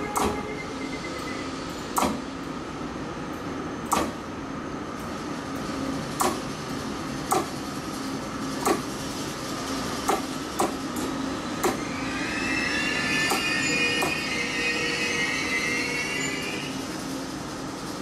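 Locomotive-hauled passenger train rolling slowly into a station: its wheels click over rail joints and points at uneven intervals one to two seconds apart, over a steady running hum. A high metallic wheel squeal comes in about two-thirds through and fades a few seconds later as the train slows.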